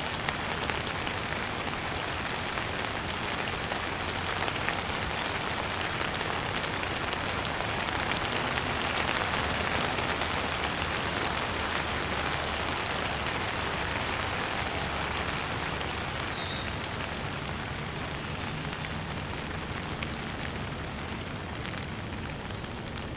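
Steady rain falling on a surface, a dense, even patter of drops that eases a little near the end. A brief high chirp sounds about two-thirds of the way through.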